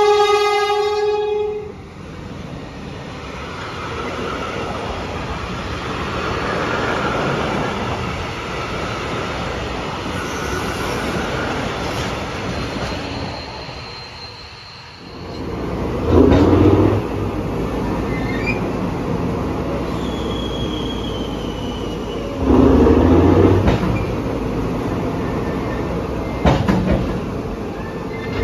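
A diesel locomotive hauling a freight train of tank wagons gives one horn blast of under two seconds. The loaded wagons then roll past with steady wheel rumble and brief high wheel squeals.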